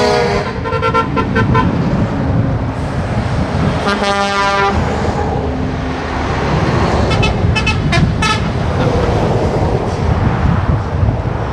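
Trucks in convoy passing with a steady engine and road rumble, and vehicle horns sounding over it: one horn held for under a second about four seconds in, then a quick run of short toots around seven to eight seconds in.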